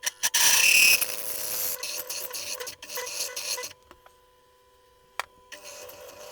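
A 12 mm twist drill enlarging a 10 mm hole in aluminium stock on a milling machine, over a steady spindle whine: a loud rasp as the bit bites in, scraping cutting for a few seconds, a pause with a single click, then cutting again near the end.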